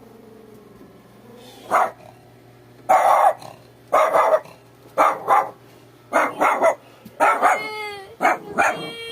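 A dog barking repeatedly, about a dozen short barks in irregular bursts, some in quick pairs. Near the end one longer call slides down in pitch.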